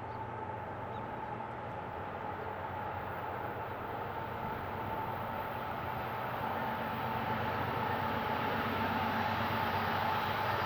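Approaching diesel-hauled freight train growing steadily louder: a low engine drone with a steady high ringing tone above it.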